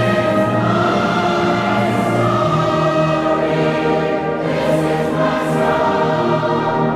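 Choral music with orchestra: voices holding long sustained chords that change every second or two.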